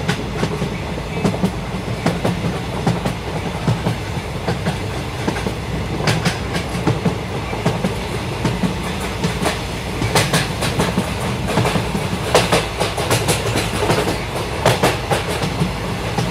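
Yesvantpur–Karwar Express running at speed, heard from aboard: a steady rumble of the coaches with clickety-clack of the wheels over the rail joints, the clacking coming thicker in the second half.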